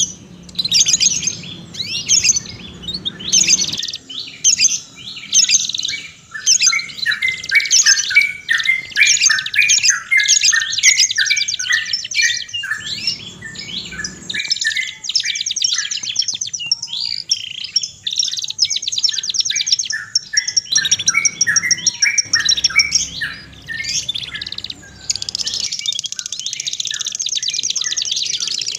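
Several songbirds singing at once: a dense, unbroken stream of chirps, trills and fast repeated notes, with the background changing abruptly several times, as in spliced recordings.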